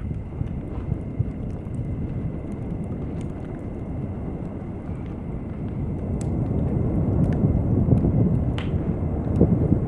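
Beach ambience of low, rumbling surf and distant thunder, swelling louder from about six seconds in and again near the end, with scattered faint crackles from a campfire.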